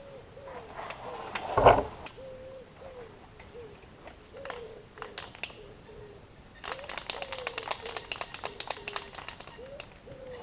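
A bird calling in a run of short, repeated cooing notes, each rising and falling. A single loud knock comes about two seconds in, and a quick clatter of clicks follows a few seconds later.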